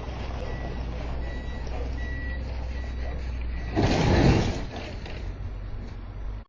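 Dashcam audio of a vehicle's steady low engine and road hum, with a faint high beep repeating in the first couple of seconds, then a loud, harsh noise for under a second about four seconds in.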